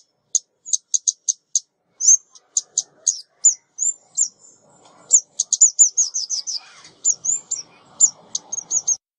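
Female ốc mít bird calling: a string of high, sharp chip notes and short falling tweets, with a quick run of them in the middle, the kind of recording played as a lure to draw in birds.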